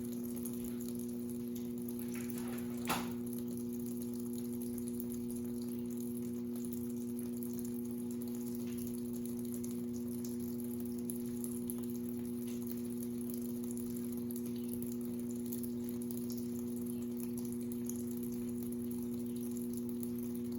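Consul 8 kg washing machine running with a steady electric hum and water moving inside, with one short knock about three seconds in.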